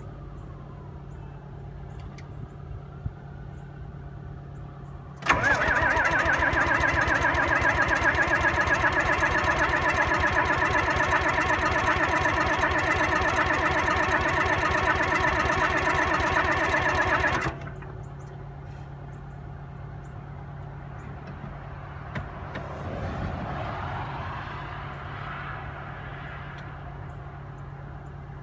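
Starter cranking a cold, worn old truck engine in fast, even pulses for about twelve seconds without it catching, then cutting off. The owner puts the hard start down to cold and wear: blow-by, an engine due for an overhaul, no block heater plugged in and no starting fluid. A steady low hum runs underneath.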